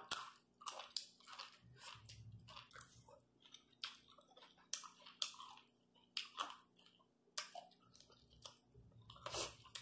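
A person chewing chicken-feet salad (tum teen gai): faint, irregular wet clicks and crunches of chewing.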